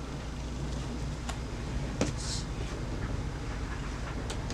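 1965 Pargo golf cart's GE electric motor running steadily on the bench with a low hum, and a few sharp clicks. It is the original motor, and it still works.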